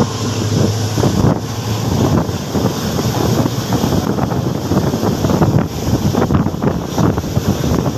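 Wind buffeting the microphone held out of a moving passenger train, over the steady rumble and irregular clatter of the coach's wheels on the rails.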